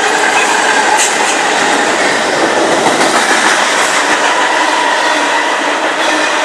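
Train passing close by: a loud, steady rumble and rattle of wheels on the rails.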